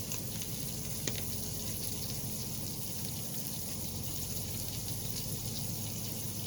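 Zucchini and squash simmering in an Instant Pot, a steady sizzling hiss with a low hum underneath. One short click about a second in.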